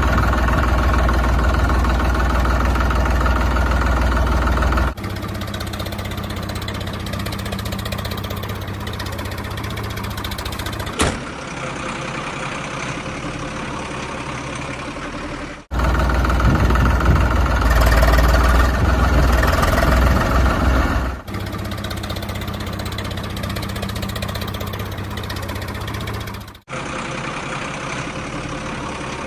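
Motor vehicle engine running steadily, in spliced stretches that cut in and out abruptly every few seconds, louder in the first five seconds and again around the middle.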